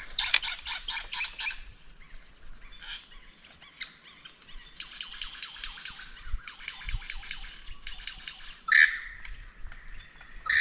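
Birds calling from the bush in repeated rapid chattering bursts, each about a second long, with a louder squawk near the end.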